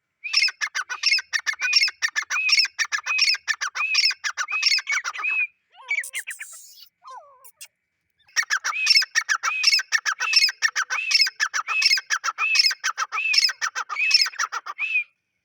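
Male grey francolin calling: its loud call phrase repeated over and over, about three phrases every two seconds, in two long bouts with a pause of a few seconds between them.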